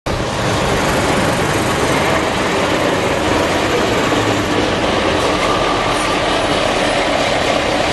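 Heavy vehicle running along a concrete guided busway track: a loud, steady rumble of tyre and road noise.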